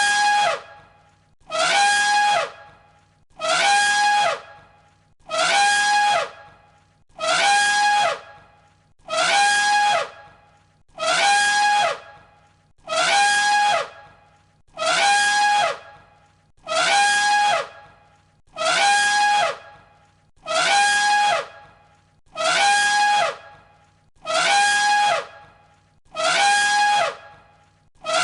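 Elephant trumpeting: the same short, brassy call repeated again and again, about every one and a half seconds, as a loop.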